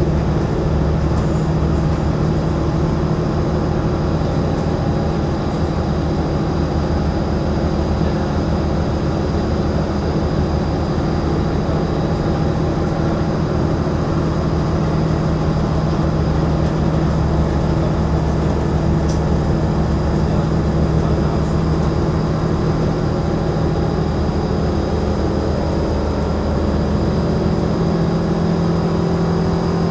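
Cabin noise of an Alstom Coradia LINT train running at speed: a steady low hum over an even rumbling noise, heard from inside the passenger compartment.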